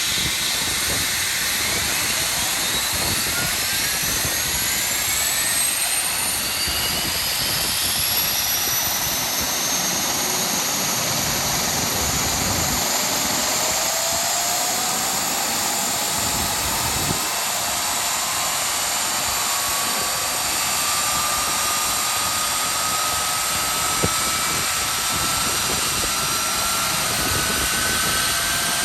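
Rolls-Royce RB211 turbofan on a Boeing 757-200 spooling up during engine start: a steady rushing roar with several whines climbing slowly in pitch as the spools gain speed.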